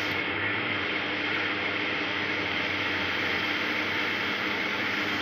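Steady hum and hiss with no change in level, carrying a faint low tone and a higher whine.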